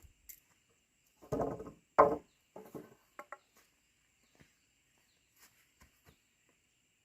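A few scattered knocks and taps, the loudest a sharp hit about two seconds in, over a faint steady insect drone.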